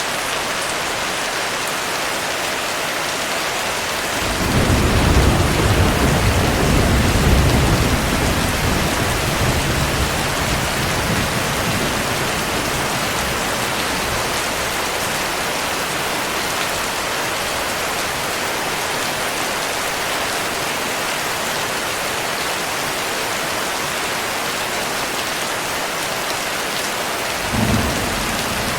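Steady heavy rain, with a low thunder rumble rolling in about four seconds in and fading away over several seconds. A shorter rumble comes near the end.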